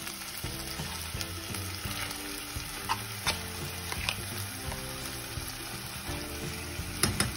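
Marinated mutton sizzling as it goes into hot ghee in a pan, with a wooden spatula scraping it off the bowl and a few sharp knocks of the spatula against the bowl. The loudest knocks come near the end.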